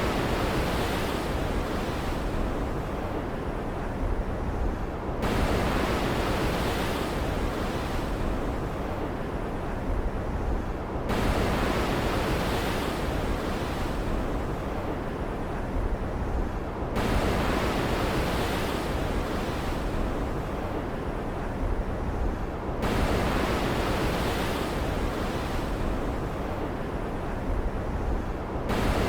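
Ocean waves in a storm soundscape: a steady rushing hiss, with a wave surging in and washing out about every six seconds.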